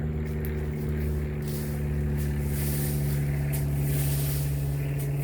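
A steady engine hum, an even drone that doesn't change in pitch.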